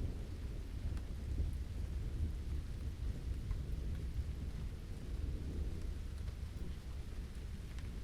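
Steady rain with a deep, continuous low rumble and faint scattered drip ticks.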